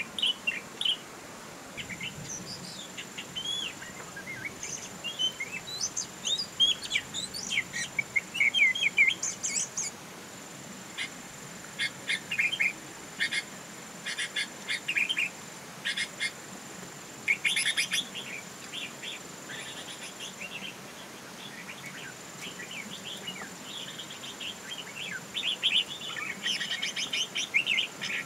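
Birds chirping, with many short, quick chirps in bursts throughout. A thin, steady high tone comes and goes underneath.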